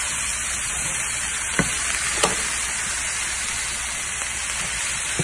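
Cauliflower-rice stuffing with chopped vegetables and nuts sizzling steadily as it fries in a pan while a spoon stirs it, with two light clicks of the spoon against the pan a little before halfway.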